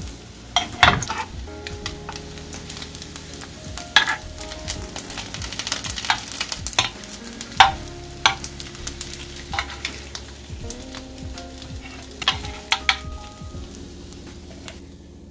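Food sizzling in a hot pan as it is stir-fried, with a utensil knocking against the pan now and then.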